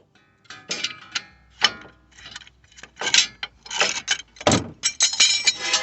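Irregular metal-on-metal clinks, scrapes and rattles of a steel C-clamp being fitted and worked against a front brake caliper and pad to push the caliper piston back. Some clinks ring briefly, and they come thicker near the end.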